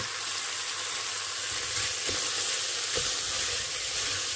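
Minced meat and sliced mushrooms sizzling as they fry in a pot, with a spoon stirring and scraping through the mixture and a few light knocks against the pot.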